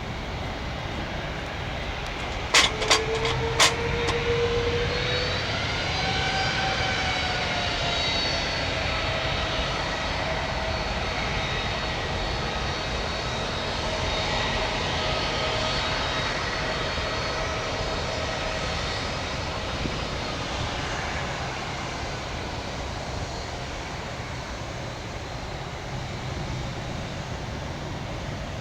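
Airbus A330 freighter's jet engines whining at low power as it taxis. The whine rises in pitch about five seconds in, holds, then eases and fades over the last several seconds. Three sharp clicks come a few seconds in.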